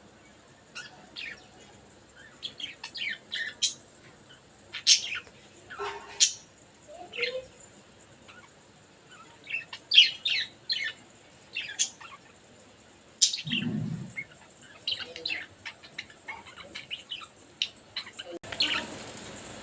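Pet budgerigars chirping and chattering in many short, irregular calls, with a brief low sound about two-thirds of the way through.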